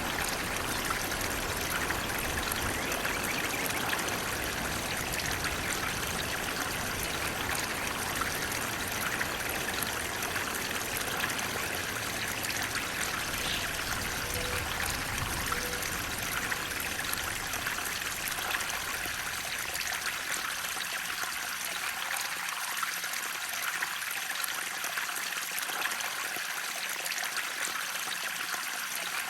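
Water flowing steadily, a continuous splashing trickle; its low rumble fades away about two-thirds of the way through, leaving the higher splashing.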